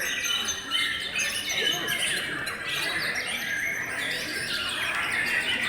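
Many white-rumped shamas (murai batu) singing at once, a dense chorus of overlapping whistles, trills and rapid chattering phrases that never lets up.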